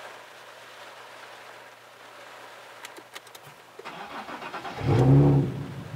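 A Nissan 370Z Nismo's VQ37VHR 3.7-litre V6, with Invidia test pipes, Tomei Y-pipe and Tomei Expreme Ti titanium cat-back exhaust, heard from inside the cabin during a cold-start sequence. A few clicks come around the middle, then the starter cranks for about a second, and the engine catches with a loud rev flare near the end before settling toward idle.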